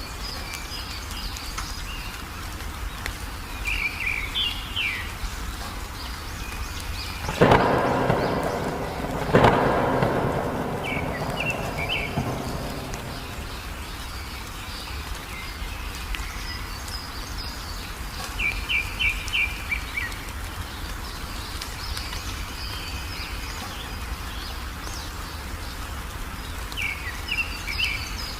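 A songbird calling in short quick runs of high chirps every several seconds over steady rain. Two sudden thunderclaps come about 7 and 9 seconds in, each rumbling off over a second or two.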